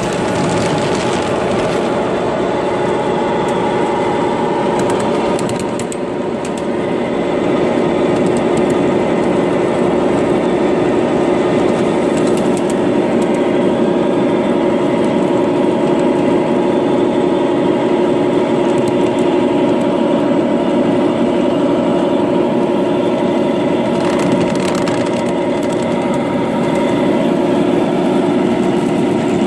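The small engine of a miniature Queensland Rail 2100 class diesel locomotive, running steadily with a constant hum.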